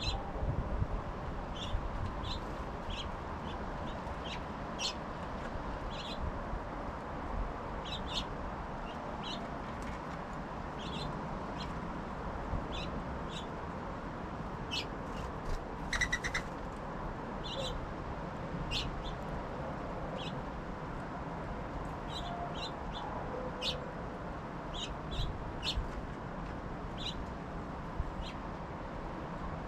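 Small songbirds at feeders giving short, high chirps and chip calls, scattered irregularly and many times over, above a steady low background noise.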